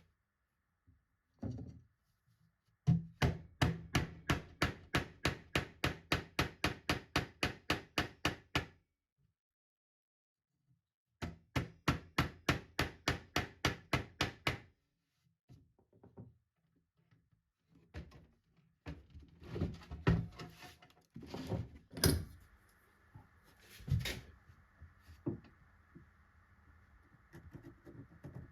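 Hammering on wood: two steady runs of blows at about three a second, then scattered knocks and clunks.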